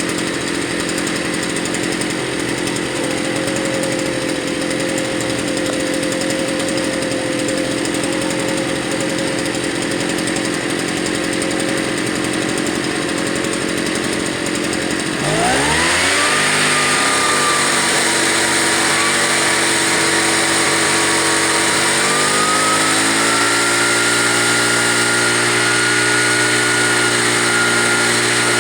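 Tanaka TBL-500 backpack leaf blower's two-stroke engine running steadily just after a cold start. About halfway through it revs up suddenly, louder and higher, and a few seconds later its pitch climbs a step higher again.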